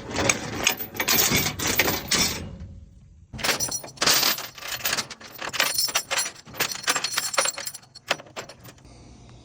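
Steel safety chain clinking and rattling as it is handled, shackled and wrapped around a D-ring. The rattling comes in two stretches with a short pause about three seconds in.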